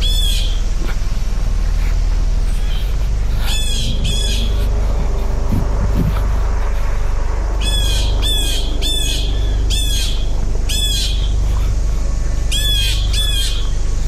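A bird squawking repeatedly: short harsh calls, a pair about four seconds in, a run of five or six from about eight seconds, and another pair near the end. A steady low rumble runs underneath.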